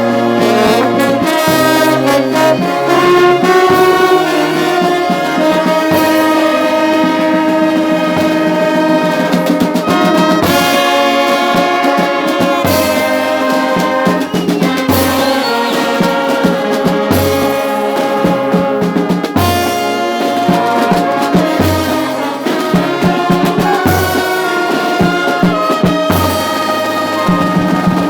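Brass band playing, with trumpets and trombones holding chords and a slow melody in harmony, and percussion hits recurring every couple of seconds.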